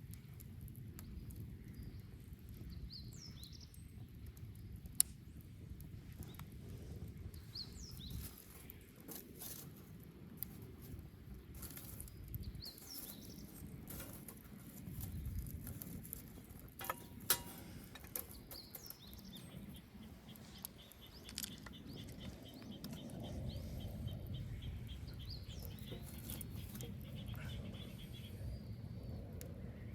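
Wood fire burning: a low rumble of flames with scattered sharp crackles and pops. Birds chirp now and then, and a rapid trill runs for several seconds in the second half.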